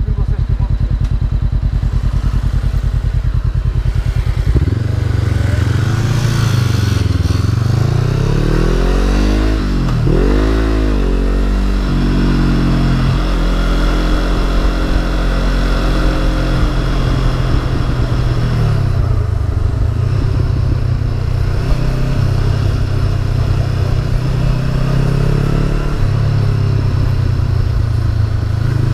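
Honda CB500F's parallel-twin engine running while the bike is ridden. It holds a low, steady note for the first few seconds, then its pitch climbs and drops again and again with throttle and gear changes.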